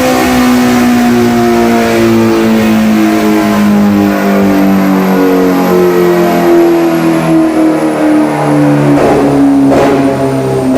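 Kawasaki ZX-6R inline-four sport-bike engine running hard on a dyno through an Austin Racing aftermarket exhaust, its pitch slowly falling, with a few brief crackles near the end.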